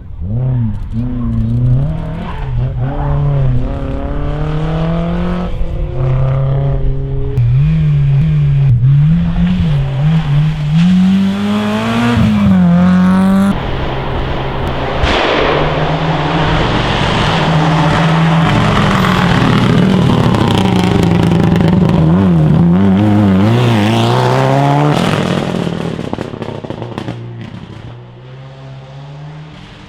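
Rally car engines at full throttle, revving up and dropping back with each gear change as the cars are driven hard. An abrupt change about halfway through brings a second run, which fades away near the end.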